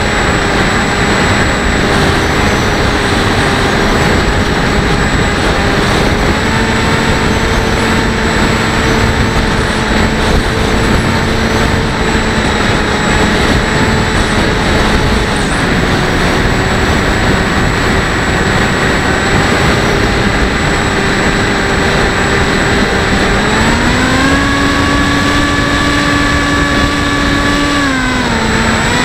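Bixler 1.1 model plane's electric pusher motor and propeller running under heavy wind noise on the onboard camera's microphone. About 23 seconds in the motor pitch steps up with throttle, holds for a few seconds, then drops back near the end.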